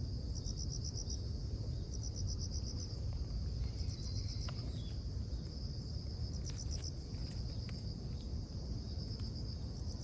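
Insects chirping: a steady high shrill with short trills of rapid pulses repeating every second or so, over a low steady rumble.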